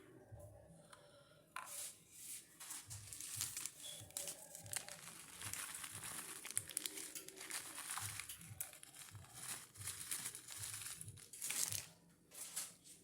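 Kit Kat candy-bar wrapper being torn open and crinkled by hand, an irregular crackling that goes on for most of the stretch and dies away near the end.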